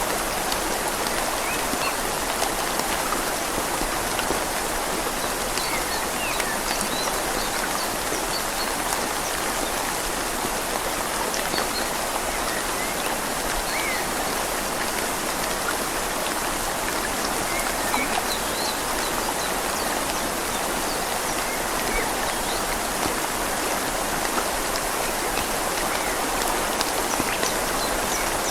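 Steady rain falling on leaves and a gently flowing river: a constant, even hiss of water with small scattered drips on top.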